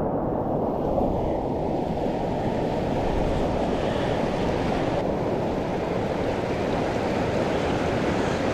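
Steady rush of whitewater from the creek's rapids, a continuous even roar with no breaks.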